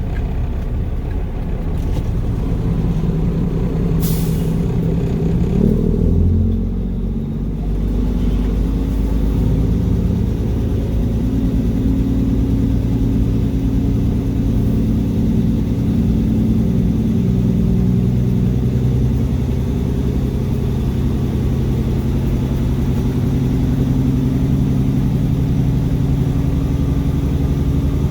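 Mack truck's diesel engine running steadily under way. There is a short sharp hiss about four seconds in, and the engine sound dips briefly around seven seconds before running on.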